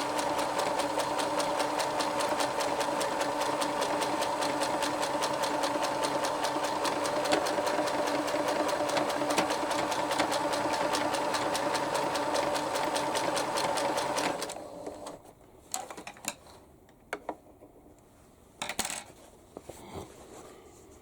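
Electric sewing machine stitching thick fabric, running steadily with a fast, even stitching rhythm, then stopping abruptly about two-thirds of the way through. A few faint clicks and rustles follow.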